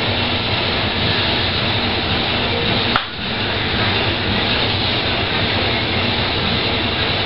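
Steady rushing background noise with a low hum, briefly dipping about three seconds in.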